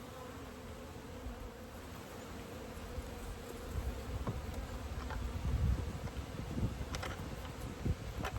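Honeybees buzzing steadily around an open hive, a constant hum. From about halfway, low rumbling and a few sharp knocks join in.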